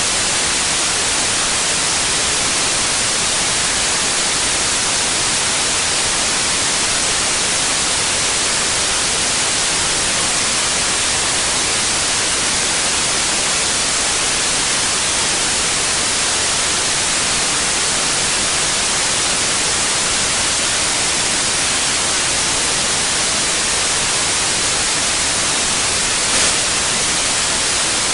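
Steady white noise: an even, unbroken hiss, brightest in the upper frequencies, with one brief tick near the end.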